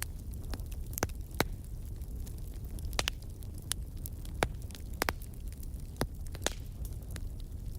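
Wood campfire burning: a steady low rumble of flames with sharp, irregular crackles and pops from the burning wood, roughly one every half second to a second.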